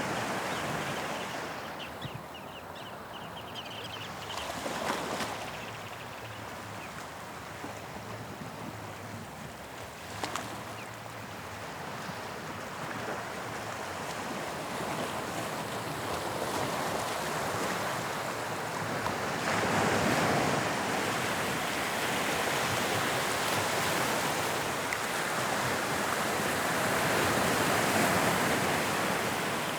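Sea waves breaking and washing on the shore: a continuous surf hiss that swells and eases, growing louder through the second half.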